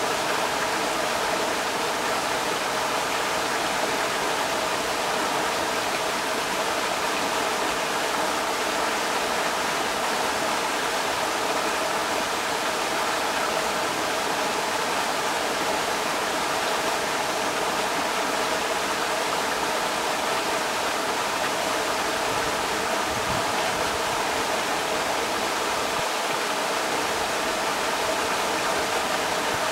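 Creek water rushing over rocks: a steady, even rush of water with no pauses or changes.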